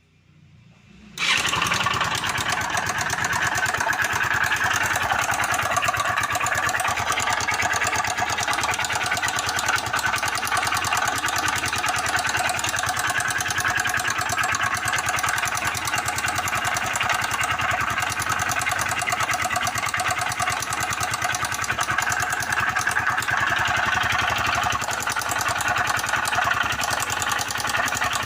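Motorcycle engine running steadily, with the knocking noise of a bad connecting rod. The sound comes in suddenly about a second in.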